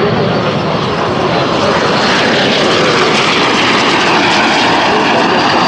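Aero L-39 Albatros jet engines running, a loud, steady, unbroken noise.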